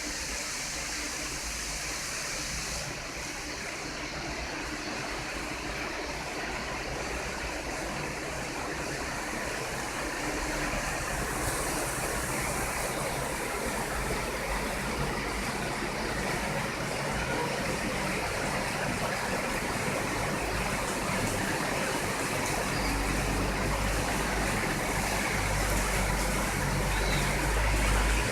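Heavy rain falling, a steady rushing hiss that slowly grows louder. A low rumble builds in the last few seconds.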